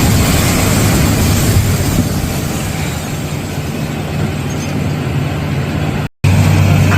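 Heavy demolition machinery at work on a building: a loud steady engine hum under a dense rumbling noise, broken by a sudden gap about six seconds in.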